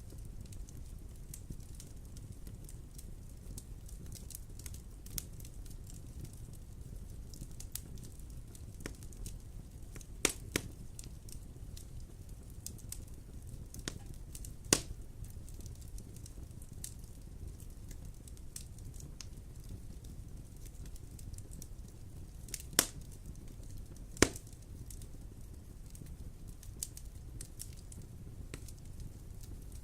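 Wood fire crackling in a fireplace: scattered small crackles over a low steady rumble, with a few sharper, louder pops, two of them near the middle and two more about two-thirds of the way through.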